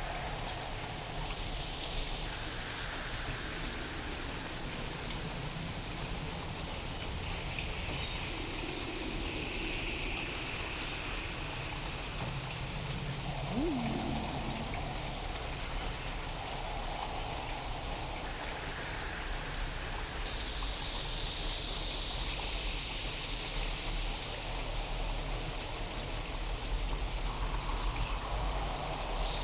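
Steady rain, sound-designed to sound alien: a constant hiss of rainfall with softer filtered washes drifting up and down in pitch and a low, steady rumble underneath. About 14 s in, a short tone swoops downward.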